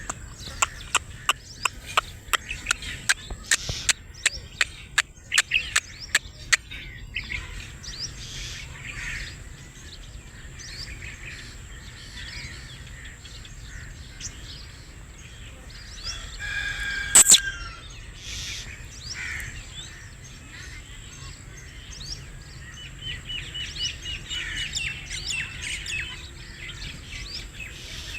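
Black francolin and other birds calling. A fast run of sharp, loud notes fills the first seven seconds, then softer scattered chirps follow, with one loud short call about 17 seconds in and a quick trill near 23 seconds, over a steady high thin tone.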